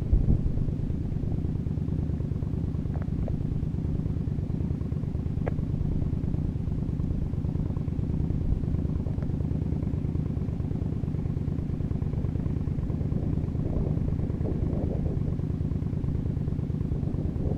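Motorcycle engine idling steadily, an even low running note with a few faint ticks.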